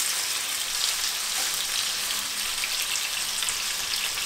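Chicken breasts browning in oil and butter in a frying pan: a steady sizzling hiss with fine crackles.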